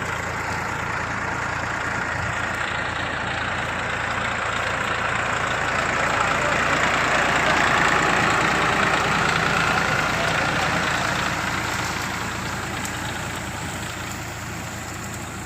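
Engine of a homemade jugaad tractor running steadily, growing louder to a peak about eight seconds in and then fading.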